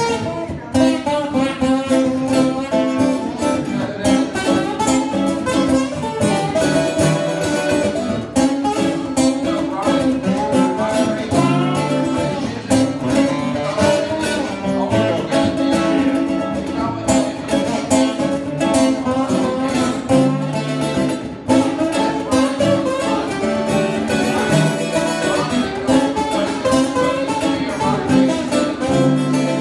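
Guitars playing an instrumental break in a country song, a lead guitar picking quick runs of notes over the band.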